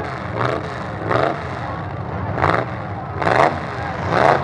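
Demolition-derby trucks' engines running with a steady rumble, revving in about five short surges roughly a second apart.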